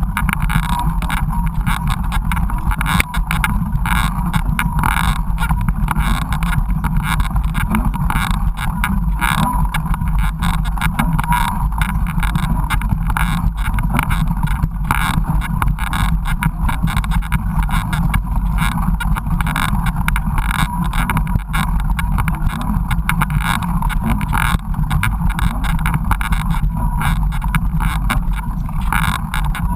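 Mountain bike ridden over rough trail, heard through an action camera: wind buffeting the microphone with a steady low rumble, and constant rapid rattling and knocking from the bike over the ground.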